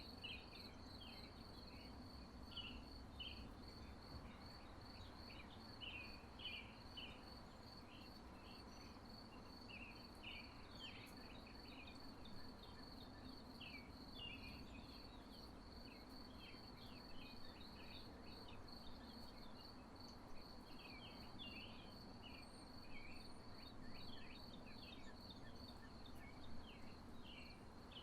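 Faint, steady, high insect trill, like crickets, with many short bird chirps scattered over it.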